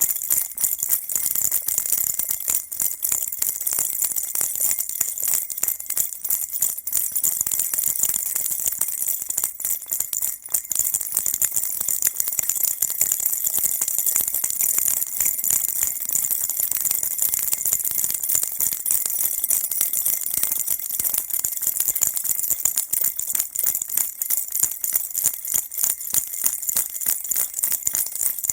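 Baby rattle shaken without a break: a dense, fast, even jingling, high and bright.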